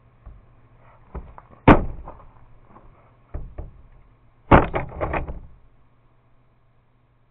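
A series of sharp knocks and clatters of hard objects: a few separate knocks, the loudest about a second and a half in, two more around three and a half seconds, then a quick run of several knocks near the five-second mark. A steady low hum runs underneath.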